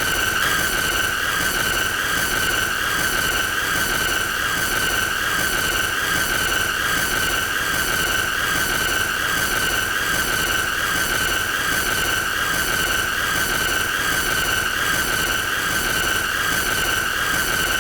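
Continuous high-pitched squealing tone that wavers slightly in pitch, over a steady hiss with a faint regular pulsing.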